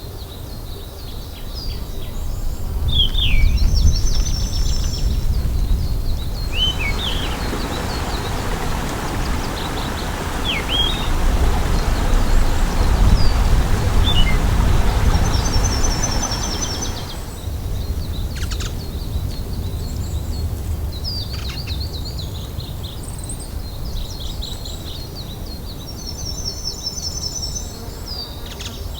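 Mountain forest ambience: small birds call again and again with high, fast trills and short falling chirps over a steady low rumble. A broad rushing noise swells up about a quarter of the way in and dies away a little after the middle.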